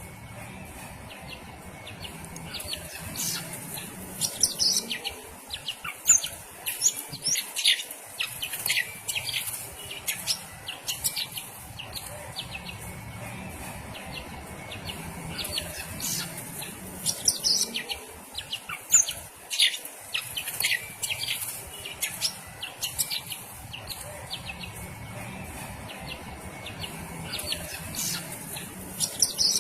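Cucak ijo (greater green leafbird) calling in runs of rapid, sharp high chirps separated by quieter spells, the agitated calling of a bird worked up by a rival.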